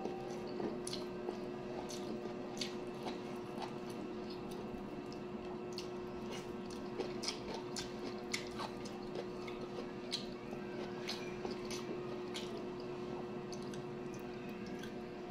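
Close-up eating sounds of a mouthful of rice and cabbage being chewed, with many small mouth clicks scattered irregularly throughout, over a steady low hum.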